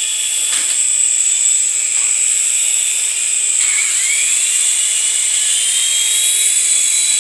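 Small toy RC helicopter's electric motor and rotor whining steadily at a high pitch, with the whine rising about four seconds in as the throttle is opened up.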